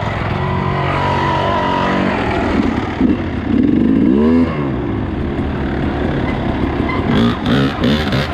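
Dirt bike engine running under throttle while riding a trail, its pitch climbing over the first two seconds, then dropping and rising again about four seconds in as the throttle is eased and reopened.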